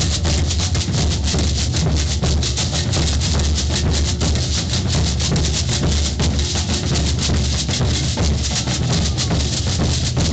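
Maracatu drum ensemble playing a dense, steady rhythm: deep alfaia bass drums under snare drums and shakers.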